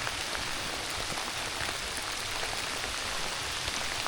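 Steady rain falling, an even hiss with a dense patter of small drop ticks.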